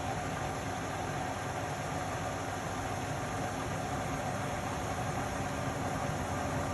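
Indesit Innex BWE 91496X front-loading washing machine running mid-cycle: a steady motor hum with a whooshing noise and vibration, unchanging throughout.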